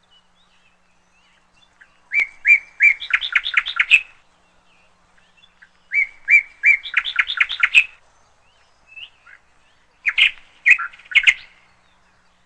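Canary chirping in three short bouts of rapid, high notes, each about two seconds long with a pause between them.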